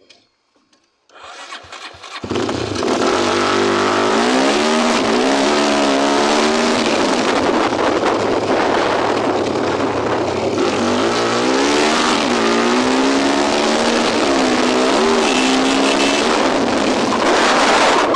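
Tornado 293cc engine, a motorcycle engine by the title's name, starting about two seconds in after a brief lead-up. It then runs loud and is revved up and down repeatedly, its pitch rising and falling in waves.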